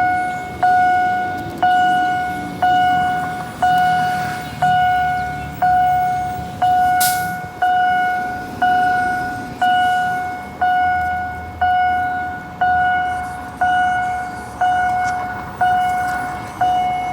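Railroad crossing warning bell dinging steadily about once a second, each ding ringing out and fading before the next. A brief sharp noise cuts in about seven seconds in.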